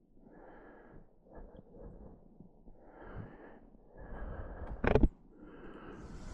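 A few soft breaths close to a helmet-mounted microphone, with one sharp click about five seconds in.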